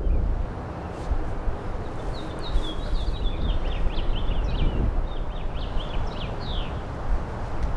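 A songbird singing a string of quick chirps, over a steady low outdoor rumble.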